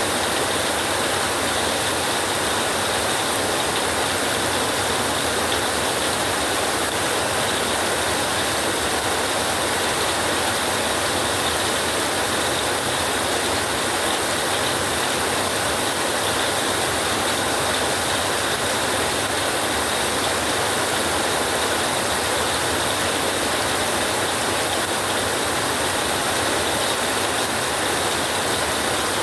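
Rain drumming steadily on a tin roof, a dense, even patter with no break.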